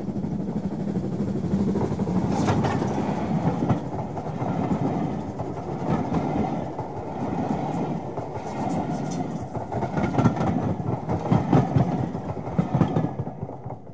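Passenger train passing at speed: a steady rumble of coaches with irregular clicks from the wheels. It fades out near the end.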